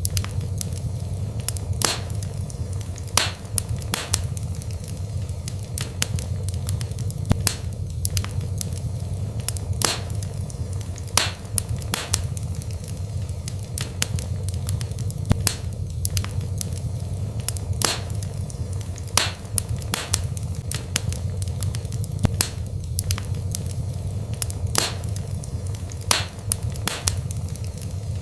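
Wood fire burning in a fireplace: irregular sharp crackles and pops, one or two a second, over a steady low rumble of the flames.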